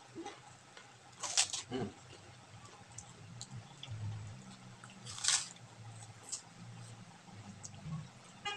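Crisp crackers (kerupuk) being bitten and chewed close to the microphone, with two loud crunches, about a second and a half in and about five seconds in, and quieter chewing and small clicks between.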